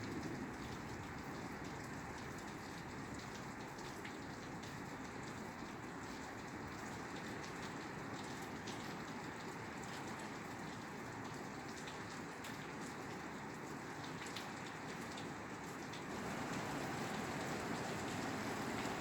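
Steady rain falling on a roof, with scattered distinct drop ticks through the patter; it gets a little louder near the end.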